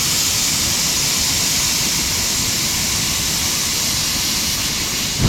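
A steady, loud rushing noise with no distinct tone, cutting off abruptly at the end.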